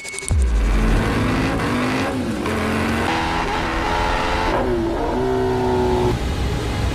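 Superbike engine revving loud, starting abruptly about a third of a second in, its pitch climbing and dropping with the throttle.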